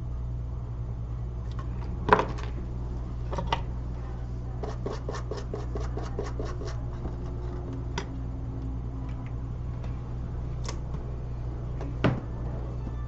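Small tools clicking and tapping at a phone micro-soldering bench over a steady low hum, with a quick run of about a dozen clicks about five seconds in and single louder taps near two and twelve seconds.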